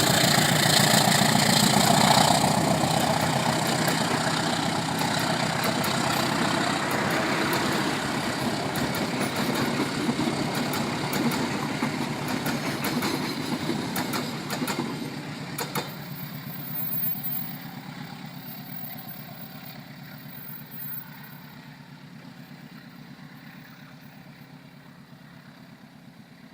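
Diesel-hauled train departing. Engine and wheel noise is loud at first, then fades steadily as the train draws away, with a short run of sharp clacks about two-thirds of the way through.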